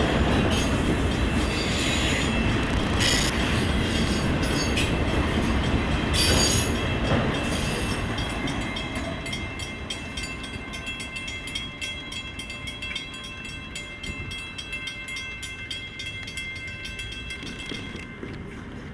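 Freight train of autorack cars rolling past at close range, the wheels rumbling on the rails with brief high squeals, then fading away as the last car goes by. In its place a level-crossing bell rings rapidly and steadily.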